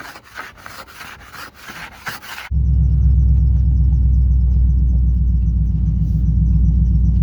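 Frost being scraped off a car windshield with a makeshift scraper in quick repeated strokes. About two and a half seconds in, this cuts abruptly to the LS V8 engine of a swapped Pontiac Firebird running with a steady low rumble.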